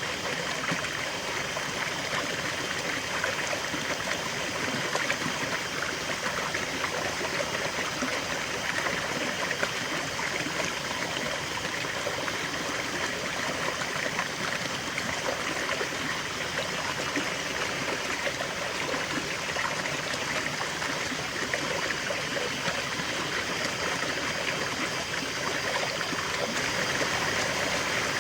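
River water flowing steadily, a continuous rushing and trickling over stones.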